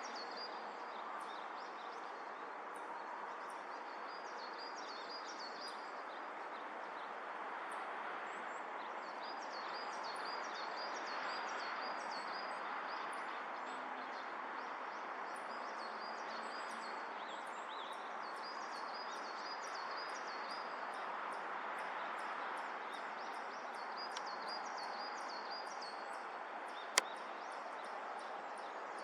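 Steady outdoor background noise with repeated series of high, thin chirps throughout, and one sharp click about 27 seconds in.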